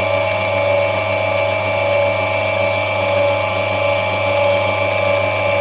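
Lapidary grinding machine running with a steady hum while a black opal is held very lightly against the wheel to rub it back.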